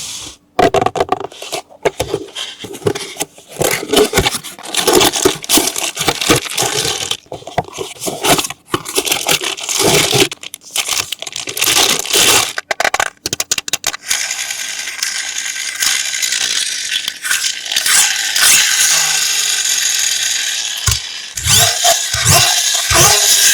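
Toy packaging being handled close up: irregular rustling, scraping, crackling and tearing of plastic and cardboard. After about 14 s it turns to a steadier rustle, and a few soft knocks come near the end.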